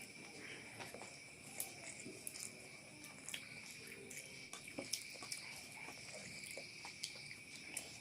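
Faint eating sounds, soft chewing with scattered short mouth clicks, over a steady high-pitched drone.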